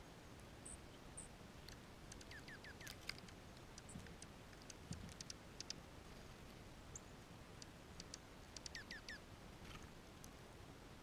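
Small birds calling faintly: scattered sharp chips, and two quick runs of four short falling notes, about two seconds in and again near nine seconds.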